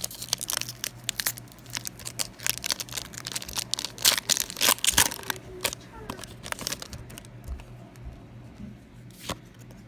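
A foil Pokémon card booster pack being torn open and its wrapper crinkled: a dense run of sharp crackles that thins out after about six seconds.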